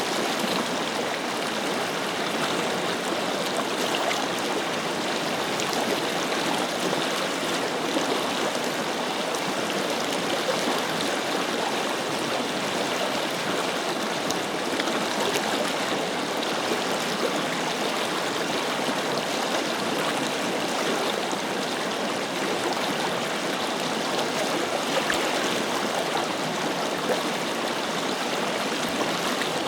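Forest river flowing in a steady, even rush of water.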